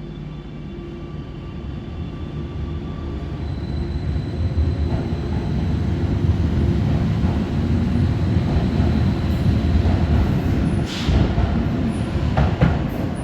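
Passenger train rumbling at a station, its low rumble building steadily over several seconds, with a few sharp clanks near the end.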